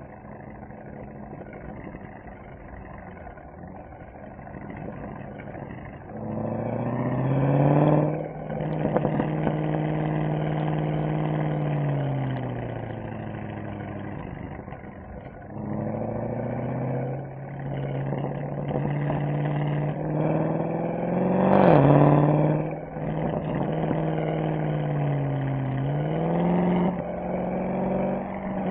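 Mercedes-AMG SL63's V8 engine and exhaust on the move: running low and quiet for about six seconds, then pulling hard with rising pitch and stepping through gearshifts. It eases off in the middle, accelerates again, and peaks sharply at high revs about two thirds of the way in, then keeps rising and falling.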